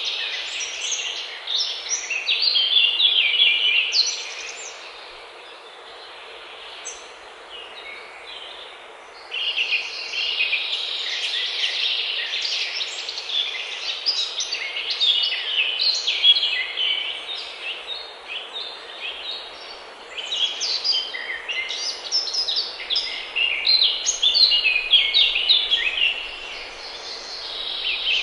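Songbirds singing: dense runs of quick, high chirping notes over a steady background hiss. The song falls away for about five seconds near the start, then resumes busily.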